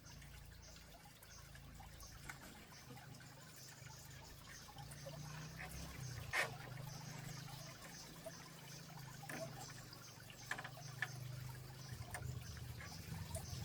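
Faint water trickling and pouring, with a few light knocks, the clearest about halfway through.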